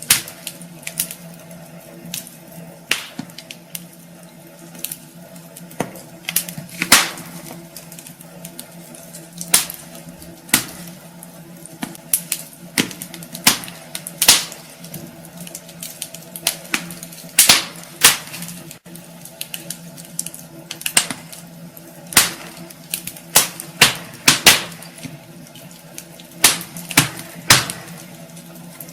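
Wood fire burning in a fireplace, crackling with sharp pops at irregular moments, some much louder than others, over a steady low hum.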